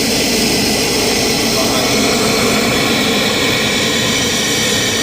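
Chevy Astro van's 4.3-litre V6 running at a steady idle, heard at the open engine bay. It now starts after a new camshaft position sensor cured its crank-no-start.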